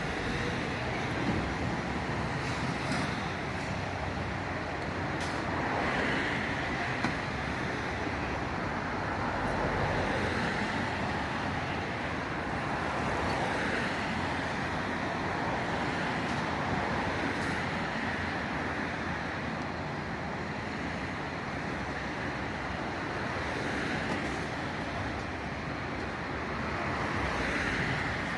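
Steady vehicle noise: a continuous rumble and hiss that swells and eases every few seconds.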